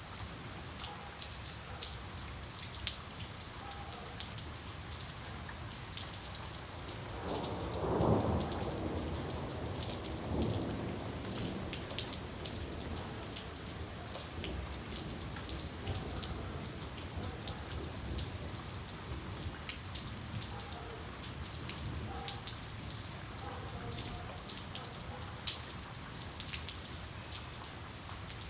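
Steady rain falling, with individual drops ticking on a surface, and a roll of thunder that builds about seven seconds in, peaks about a second later with a second swell, then rumbles away.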